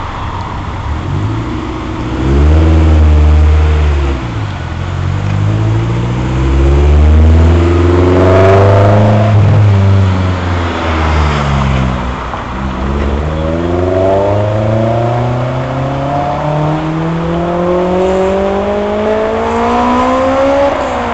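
Honda S2000's four-cylinder engine revving as the roadster pulls away and accelerates. Its pitch climbs, drops back around the middle, then climbs steadily again through the second half.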